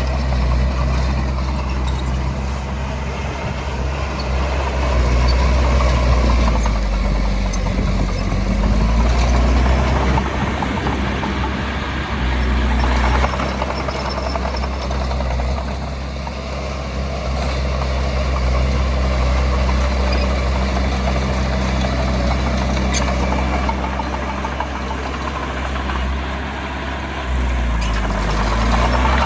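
Heavy earthmoving machine's diesel engine running hard throughout, its pitch dipping and rising a few times as it works under changing load.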